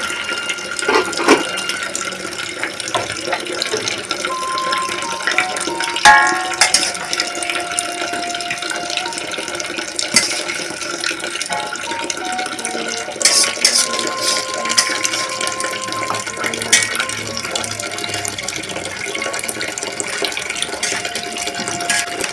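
Goose meat sizzling and bubbling in an aluminium wok, with a metal spatula scraping and knocking against the wok now and then as fried spice paste is scraped in.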